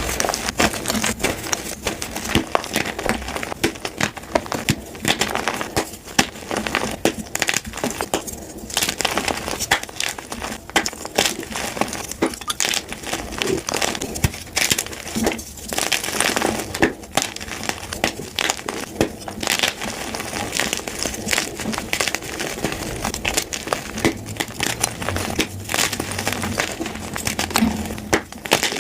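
Blocks of gym chalk being crushed and crumbled by hand close to the microphone: a dense, irregular crunching and crackling that goes on throughout.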